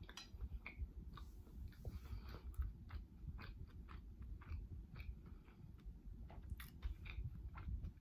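A person quietly chewing a mouthful of corn dog with lips closed: soft, irregular wet clicks and smacks of mouth and tongue.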